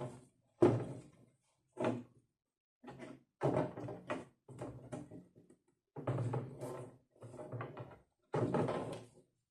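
A string of about ten irregular knocks and clunks, each ringing briefly before dying away.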